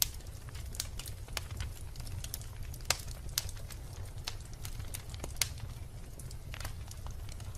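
Wood logs burning in a fireplace, crackling: irregular sharp pops and snaps, a few louder than the rest, over a steady low rumble of the fire.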